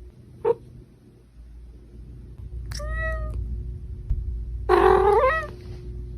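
A house cat meowing twice, about three and five seconds in, the second meow louder and longer, after a brief short sound half a second in, over a low rumble.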